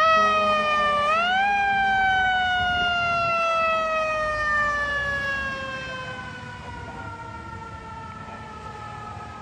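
Fire engine's Federal Signal e-Q2B mechanical siren wailing loudly. Its pitch dips and climbs again about a second in, then it slowly winds down, falling in pitch and fading over the following seconds.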